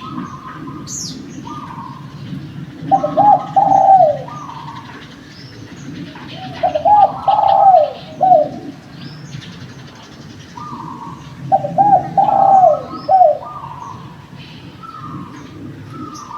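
Derkuku doves (island collared doves) cooing. A loud multi-note coo ending in a falling note comes three times, about four seconds apart, with softer repeated coos from another dove between them. Small birds chirp faintly in the background.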